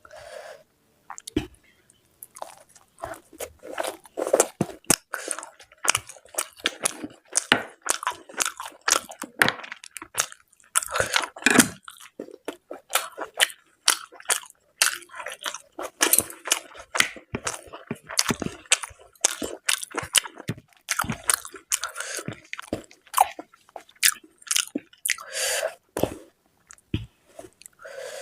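Close-miked eating sounds: wet chewing, mouth smacks and short crunches of someone eating luchi with mutton curry, coming thick and irregular.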